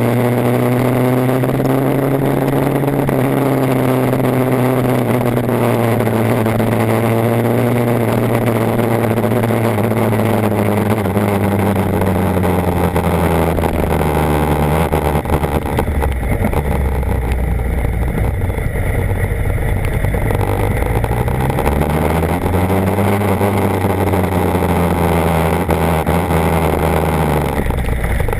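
BMW HP4's inline-four engine running as the bike is ridden in rain mode. Its pitch falls slowly as the bike slows, stays low for a while, rises briefly about three-quarters of the way through, then falls again, over a steady rushing noise.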